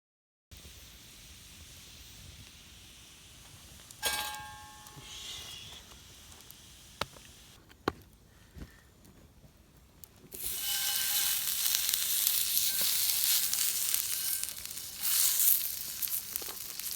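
Food laid onto a hot iron griddle starts sizzling suddenly about ten seconds in, loud and steady, swelling again near the end. Before that it is quiet, apart from a single ringing metal clink and a few light ticks.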